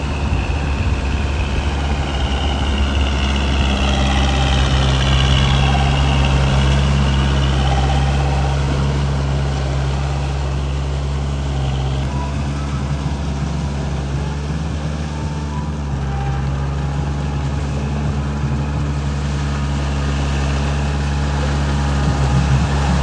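Kubota 45 hp tractor's diesel engine running steadily.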